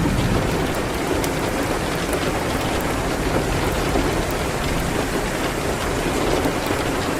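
Steady rain hitting a window, an even hiss with a low rumble underneath, and occasional faint crackles from a wood fire.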